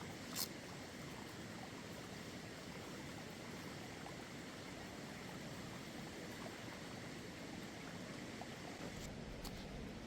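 A steady, quiet hiss of outdoor background noise, broken by a sharp click about half a second in and another near the end.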